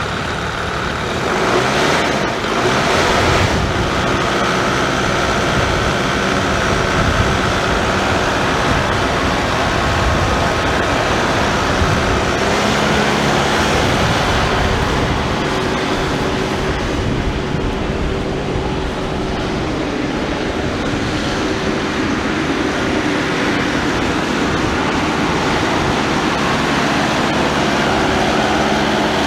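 Kubota MX6000's four-cylinder turbocharged diesel engine running steadily.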